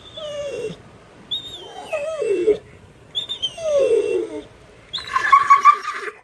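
Pit bull making his drawn-out, whining "talking" vocalizations: three long calls that slide down in pitch. About five seconds in comes a shorter, higher sound.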